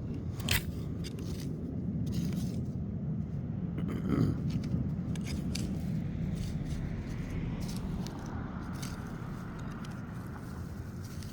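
Soil being dug and scraped while unearthing sweet potatoes: continuous rough scraping with scattered small clicks and crunches.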